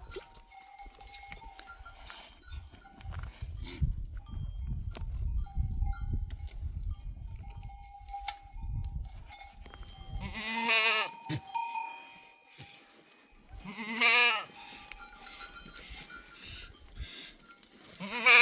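Animal bells clinking and ringing among a herd over a low rumble. Then goats bleat three times, about ten, fourteen and eighteen seconds in, with a wavering call each time; the last call is the loudest.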